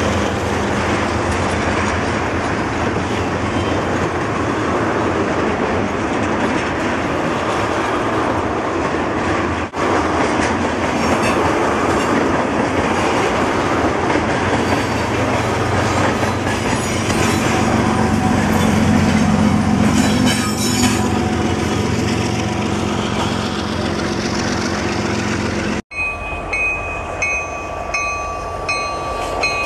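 A freight train of tank cars rolling past, with the steady rumble and clatter of steel wheels on the rails and a diesel locomotive's low engine drone swelling partway through. After an abrupt cut near the end comes a repeating high ding, about one a second, over a quieter rumble.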